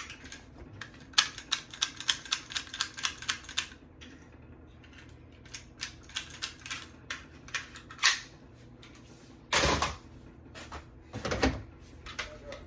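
A rapid run of sharp clicks, about six a second, then scattered single clicks and taps. Two louder, longer rustling or scraping bursts come near the end.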